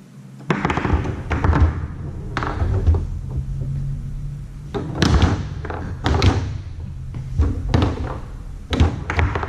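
Tornado foosball table in fast play: the ball struck by the figures and the rods knocking against the table, a quick irregular run of hard knocks and thuds that starts about half a second in.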